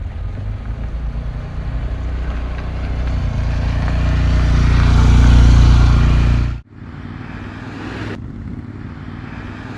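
Vehicle on the move: a deep, steady rumble of road and engine noise that swells louder, then cuts off abruptly about two-thirds of the way in to a quieter stretch of the same kind of travel noise.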